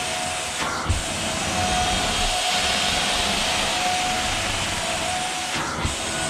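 Carpet-cleaning extraction vacuum running through the wand and hose: a steady rushing hiss with a whine. Twice, about a second in and near the end, the sound dips briefly with a soft thump.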